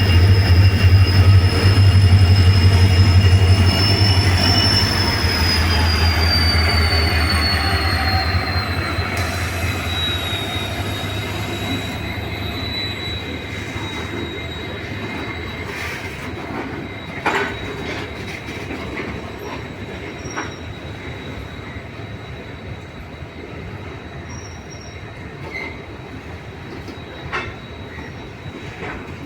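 Train running on the rails with a low rumble and a high wheel squeal that slowly drops in pitch, the whole sound gradually fading. A few sharp knocks come through around the middle and near the end.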